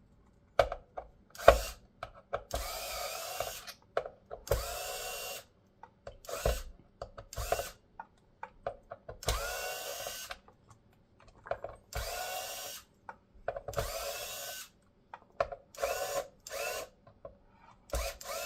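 Electric screwdriver backing screws out of an Xbox Series X case. It runs in about nine short bursts, each with a whine that rises as the motor spins up. Small clicks and knocks from handling the screws and parts come between the bursts.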